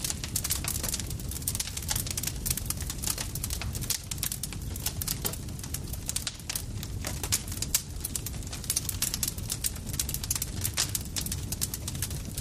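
Campfire crackling: a dense, irregular stream of sharp pops and snaps over a steady low rumble of burning wood.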